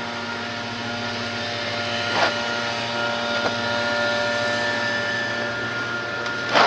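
A steady machine hum made of several constant tones, with a few light knocks: about two seconds in, again near the middle, and near the end.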